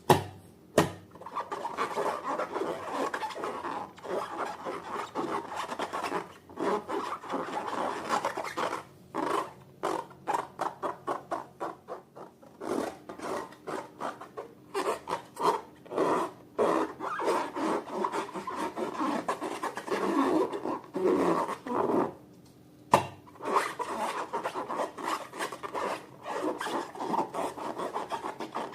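Slime being squished and stretched by hand: a run of quick, irregular sticky squelches and crackles, with an occasional sharp click.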